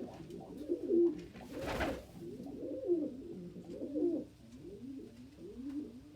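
Several domestic pigeons cooing over one another, repeated low rising-and-falling coos, typical of cocks displaying and driving each other from nest boxes. A brief rustling burst about two seconds in.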